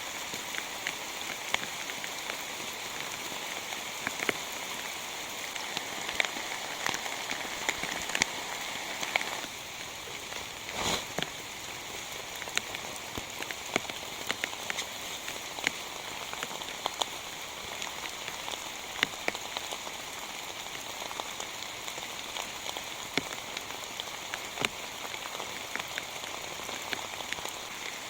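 Heavy rain falling steadily, as an even hiss with many individual drops ticking sharply on a surface. One louder drop or knock comes about eleven seconds in.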